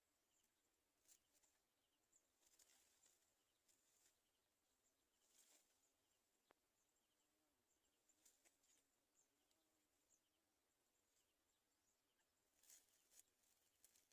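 Near silence, with faint scattered rustles and clicks, a little louder near the end.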